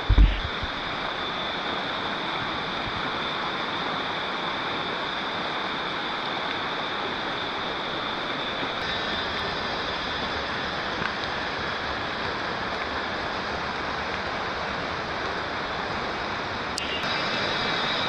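Steady rush of a river or stream, with a short low thump just after the start.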